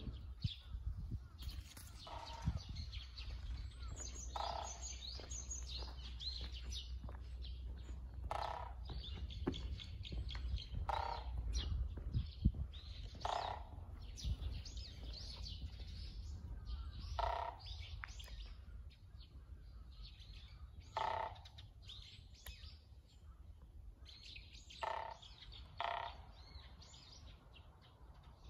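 Wild birds calling: short, loud calls repeat every few seconds, with quicker high-pitched chirps between them. A low rumble runs underneath, heavier in the first half.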